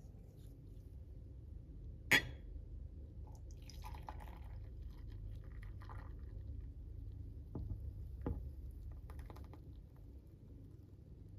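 Liquid being poured into a glass, with a sharp glassy clink about two seconds in and a few lighter clicks later on.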